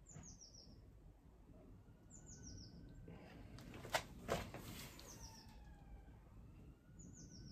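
Faint birdsong: a short series of high notes, each falling in pitch, repeated four times. Two sharp clicks about four seconds in.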